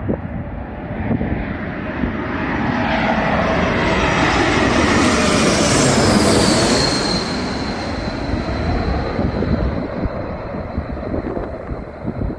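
Jet airliner's engines on landing: a roar that builds to a peak about six seconds in, then a high whine that drops in pitch and settles into a steady tone.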